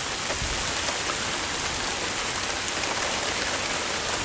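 Heavy rain falling steadily, a constant hiss with faint scattered drop ticks, heard from under an umbrella.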